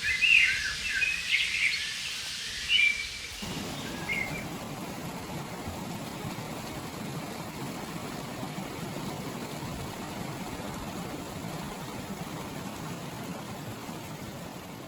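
Small birds chirping rapidly for about the first three seconds. Then, with a sudden cut, the steady rush of a flowing river carries on to the end.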